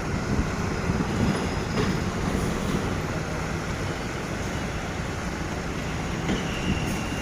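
Steady rumble and road noise of heavy vehicles in traffic, even throughout with no single event standing out.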